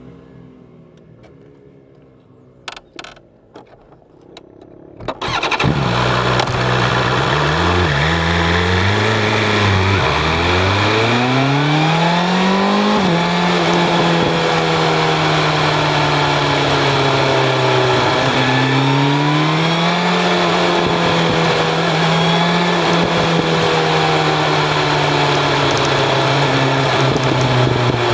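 BMW S1000 RR inline-four sport bike with an Akrapovic exhaust, under heavy wind noise. The sound is quiet for the first five seconds apart from a few short clicks, then becomes loud about five seconds in. The engine note rises and falls as the bike accelerates through the gears, then holds a steady note at cruising speed, with one more rise and fall.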